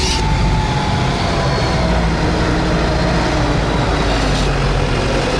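Tucker Sno-Cat engine and tracks running steadily under way: a loud, even rumble with a faint whine that slowly drops in pitch.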